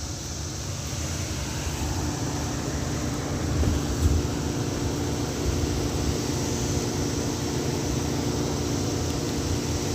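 Cicada chorus as a steady high drone, over a low steady mechanical hum and wind rumble on the microphone; the hum grows a little louder over the first few seconds.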